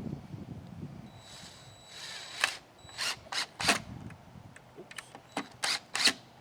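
Hand or power tool work on the wooden frame: a faint whine, then about ten short, sharp mechanical bursts in two quick clusters.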